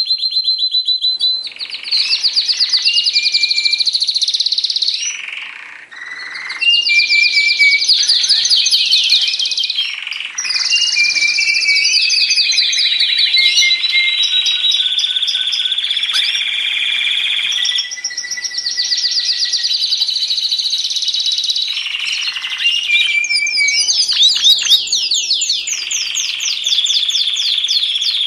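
Domestic canary singing a long, continuous song of fast rattling trills and clear held whistles, phrase after phrase with brief breaks. It is a lure song, played to prompt a silent canary to start singing again.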